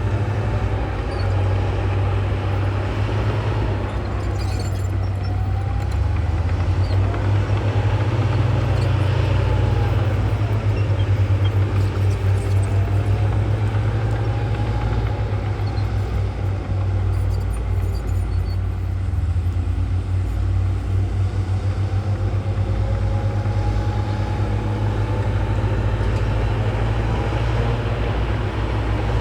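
Diesel engine of a Komatsu bulldozer working under load: a steady deep rumble, with a higher whine that rises and falls every few seconds.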